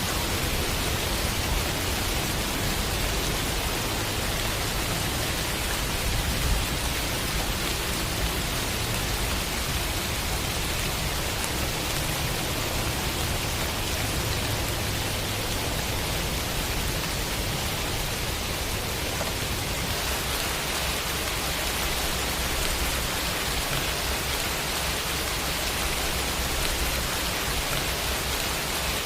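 Steady rain: an even hiss of falling rain with a low rumble underneath.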